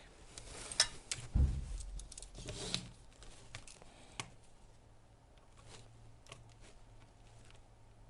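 Scattered clicks and rustles of small parts and material being handled at a workbench, with a dull thump about a second and a half in; it thins to a few faint ticks after about three seconds.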